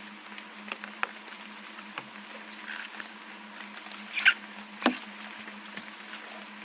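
Scattered light taps and rustles, with two sharper, louder knocks a little past four seconds and just before five seconds in, over a faint steady hum.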